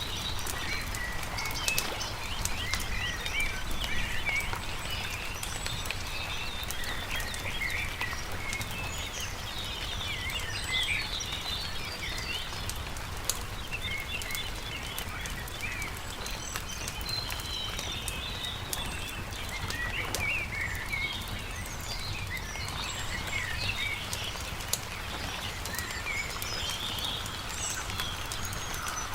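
Many small birds chirping and singing over the scattered pops and crackles of a wood campfire, with a steady low rumble underneath.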